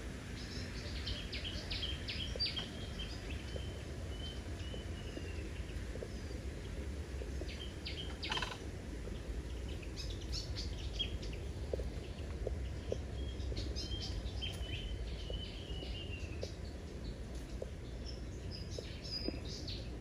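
Birds calling: quick high chirps running into a trill, heard twice, with a louder single call midway, over a steady low rumble.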